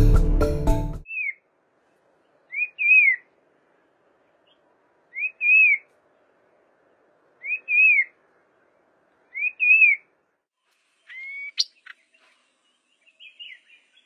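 Background music stops about a second in. A bird then gives a short rising-then-falling call about every two and a half seconds, five times. Near the end comes a higher call that sweeps upward, then a few faint chirps.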